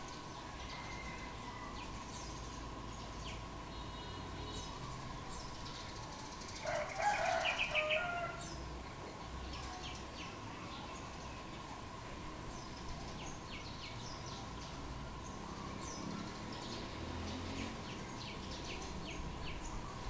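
Outdoor birdsong ambience: faint short chirps of small birds over a steady thin high tone, with one louder pitched bird call lasting about a second and a half, some seven seconds in.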